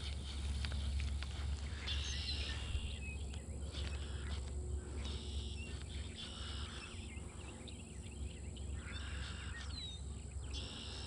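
Birds calling outdoors, short calls repeating every second or two, over a steady low rumble of wind on the microphone.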